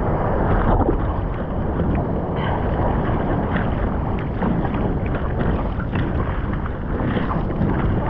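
Ocean water rushing and splashing close to the microphone, with wind noise on it: a loud, steady rush broken by many small splashes.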